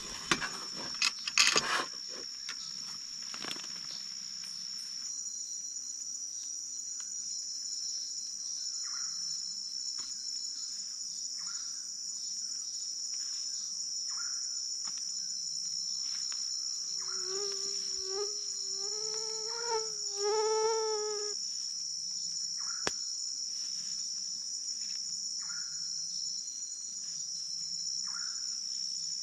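Steady high-pitched drone of an insect chorus in the forest, with short faint chirps every two or three seconds. A few sharp knocks in the first two seconds, and a brief pitched call with overtones about two-thirds of the way through.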